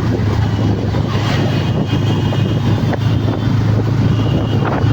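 Motorcycle running at a steady speed with wind rushing over the microphone, a continuous low engine hum under the rushing noise.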